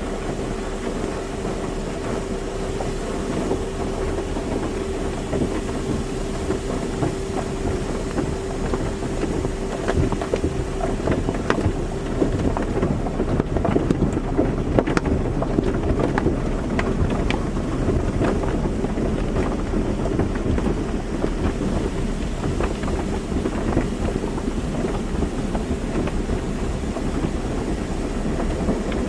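Car wash water jets spraying and spattering on a car, over a steady machine hum. The hum fades about a third of the way in as the spatter grows denser.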